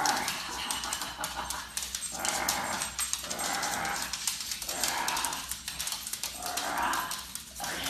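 Excited puppy crying in high-pitched whines and yips, about five cries each under a second long, with small clicking sounds between them.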